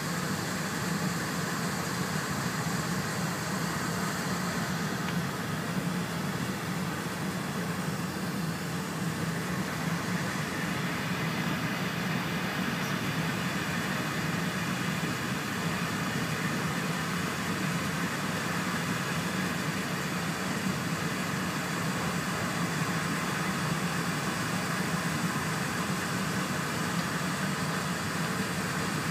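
Steady running noise of an E4 series Shinkansen at speed, heard inside the passenger cabin: a low hum under a broad hiss.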